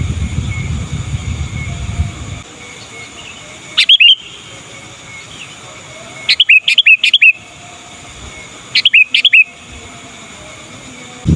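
Sooty-headed bulbul (kutilang) calling in three short bursts of quick, bubbly notes: one call, then a run of several, then a few more. A low rumble fills the first two seconds and comes back at the very end.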